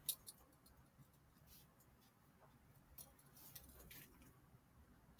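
Near silence with a few faint clicks and light handling of metal bike parts as a crank is being fitted.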